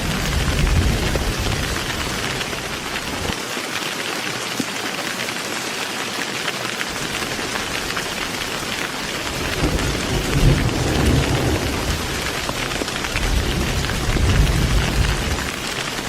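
Heavy rain falling steadily, with low rolling thunder. The rumble dies away a few seconds in and rolls back in swells through the second half.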